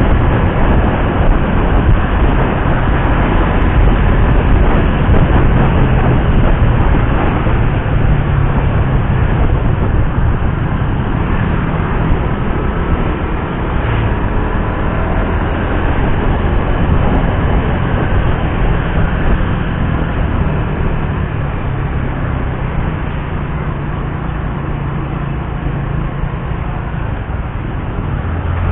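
Suzuki GSX-R150's single-cylinder four-stroke engine running under way on the road, mixed with heavy wind and road noise.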